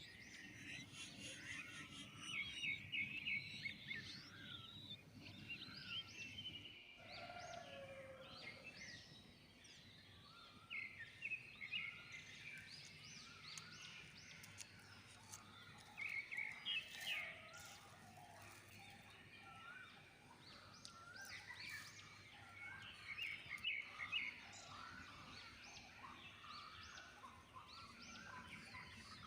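Morning chorus of many small birds chirping and trilling over and across one another, faint, over low background noise.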